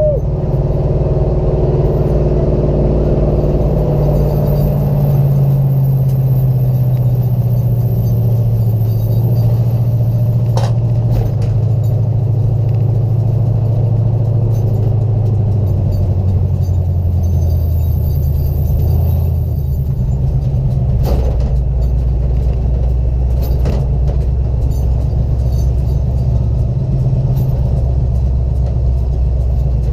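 Race car engine running steadily, its pitch sinking slowly over about fifteen seconds and then holding at a lower drone, with a few short knocks along the way.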